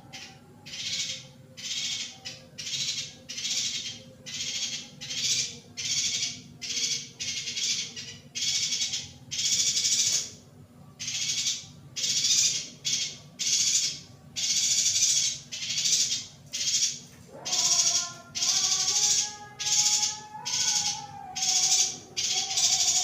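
Female yuhina calling: short, high, rasping chirps repeated steadily, a little more than once a second. About two-thirds of the way in, a lower, sustained wavering tone starts up beneath the calls.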